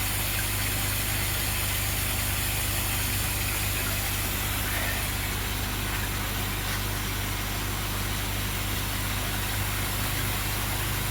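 Koi pond skimmer pump running with a steady low electric hum, over a constant hiss of water running into the pond as it is topped up.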